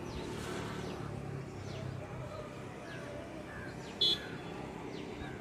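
Outdoor ambience with birds chirping: a run of short, falling chirps and brief whistled notes. About four seconds in comes one short, sharp, high-pitched sound, the loudest moment.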